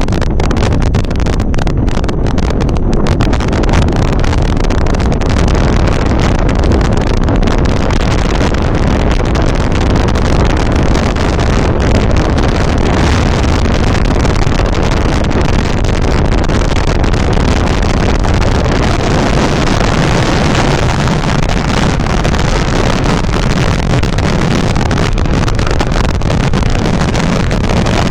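Strong wind blowing over the microphone: a loud, steady rushing noise with heavy low rumble and no let-up.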